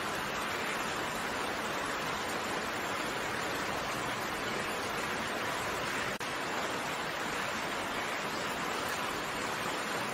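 Steady rain falling, an even hiss of raindrops, with a momentary drop in level about six seconds in.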